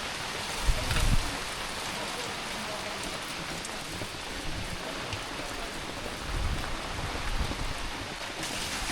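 Heavy rain falling steadily, a continuous hiss of rain on surfaces. A brief low buffet about a second in and again near the end.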